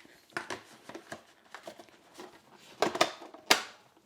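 Hard plastic parts of a cordless wet-dry vacuum being handled: a string of light clicks and knocks, the loudest near three seconds and three and a half seconds in.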